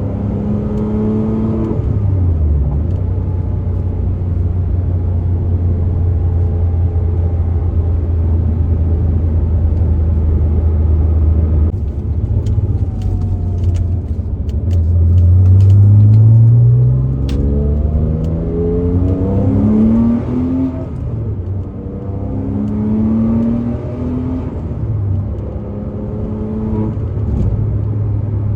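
Turbocharged Porsche 987.1 Cayman S flat-six engine on the road: a steady cruise, then it accelerates with the pitch climbing through the gears, loudest about halfway through, before easing off into smaller rises and falls.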